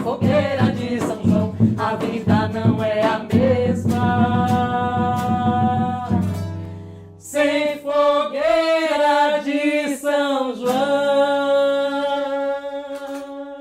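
Music: a song's ending, singing over a rhythmic instrumental accompaniment with percussion that stops about six seconds in, then a sung phrase without the percussion that closes on a long held note.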